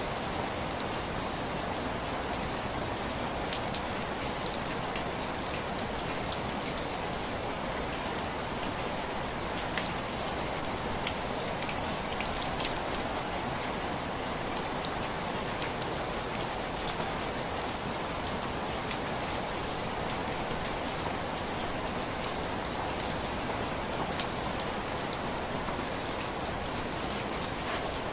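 Steady rain falling, with scattered sharp drop ticks over an even hiss of rain, as drops tapping on window glass.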